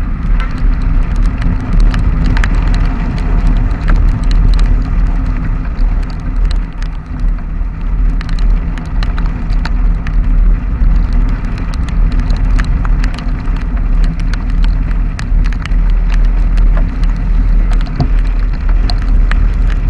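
Motorcycle riding steadily in the rain: a low engine drone under heavy wind rumble on the microphone, with many raindrops ticking against it.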